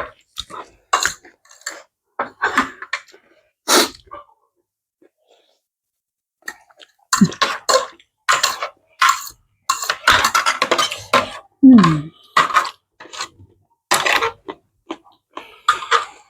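Someone eating spicy noodles with soup close to the microphone: a series of short, sharp slurps and mouth noises with clinks of cutlery against the bowl. There is a pause of a few seconds, then a dense run of them.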